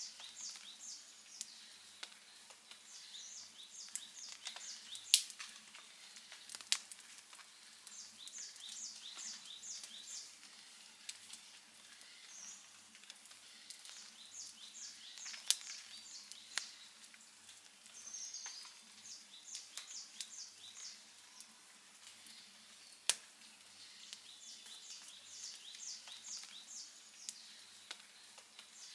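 Wood fire crackling softly, with a few sharp pops, the loudest about five seconds in. A high, rapid chirping comes in short runs every few seconds over it.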